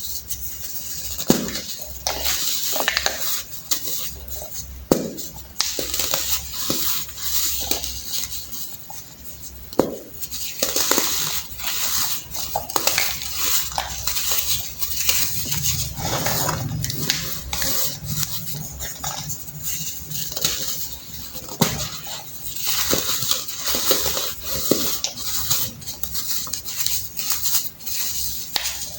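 Blocks of baked baking soda being crushed and crumbled: irregular crunching and crackling throughout, with a few sharp snaps standing out.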